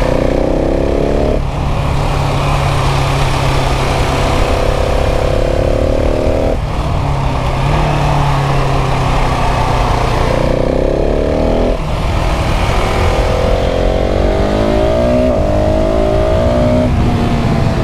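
KTM 690 SMC R's single-cylinder engine pulling hard on the road, its note rising and falling with a few abrupt breaks, over wind rushing past the microphone.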